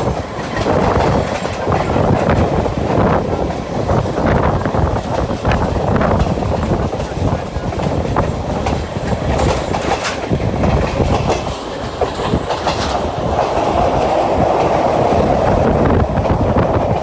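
Sri Lankan train running along the track, a steady loud rumble with wheels clattering over rail joints.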